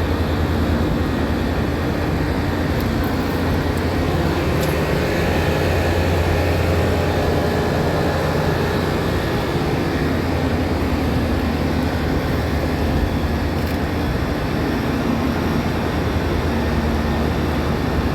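30-ton Midea rooftop air-conditioning unit running with its replaced compressor, a steady mechanical drone with a strong low hum.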